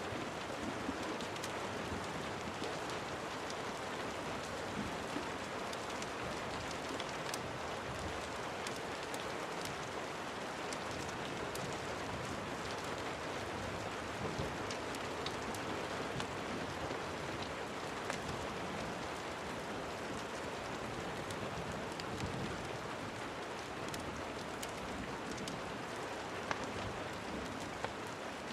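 Steady rain falling, a dense even hiss with scattered sharp ticks throughout.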